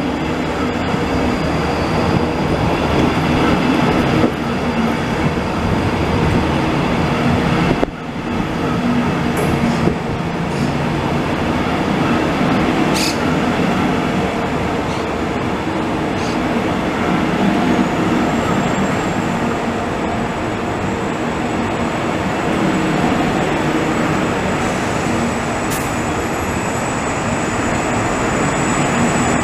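Israel Railways double-deck passenger train rolling past along the platform: a steady rumble of wheels on the rails, with a thin, high wheel squeal near the start and again in the later part.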